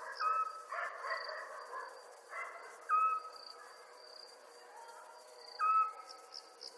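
Night ambience: crickets chirping in a high, pulsing trill, with a short clear call repeating about every three seconds as the loudest sound, over a hazier chorus of other night creatures that swells and fades.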